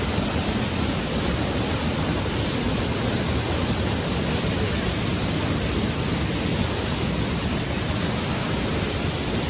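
Steady rush of a waterfall and fast river water, an even unbroken noise with no change throughout.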